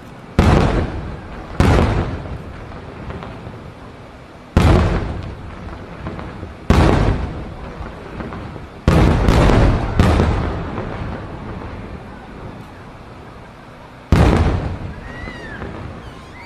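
Aerial fireworks shells bursting: about eight loud booms at irregular intervals, several in quick succession in the middle, each followed by a rolling rumble that fades over a second or two.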